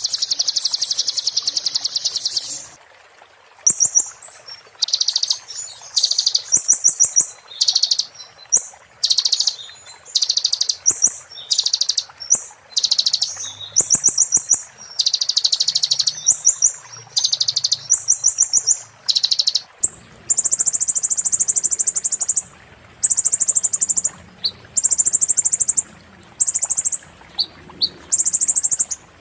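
Konin songbird singing its 'muntah beling' song: a string of very fast, high-pitched rattling trills in phrases of about half a second to two seconds, with short pauses between. In the last third the phrases sit higher and more even.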